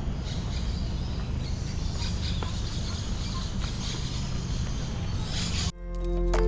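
Steady outdoor background noise with a low rumble and a faint higher hiss. It cuts off abruptly near the end as music with sharp, ringing notes begins.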